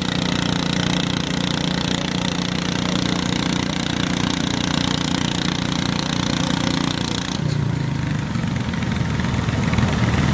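Garden tractor engine running steadily; about seven seconds in the higher part of the sound drops away and a lower, rougher running carries on.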